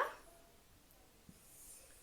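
Near silence: room tone in a small room, with a woman's word trailing off at the very start and one faint tick about a second in.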